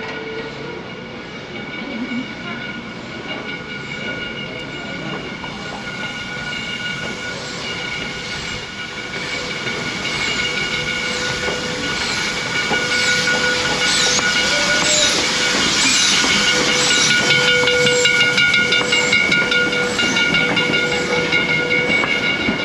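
Steam locomotive and its train hissing steam, with several steady high tones over a rushing noise that grows louder through the second half.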